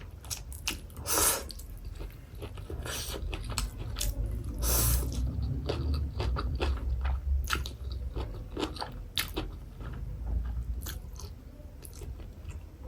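Close-miked eating: slurping and chewing spicy instant noodles, with many short wet mouth clicks and smacks.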